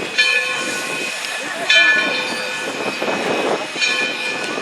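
A train moving slowly on the rails with repeated high-pitched metallic squeals, starting sharply about every one and a half to two seconds and fading, over a low rumble.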